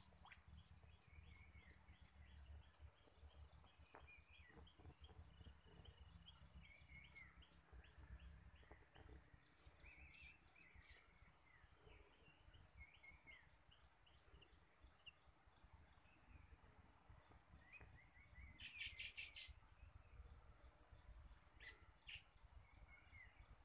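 Faint birds chirping and calling in quick series of short notes, with a denser burst of calls about three-quarters of the way through, over a low rumble.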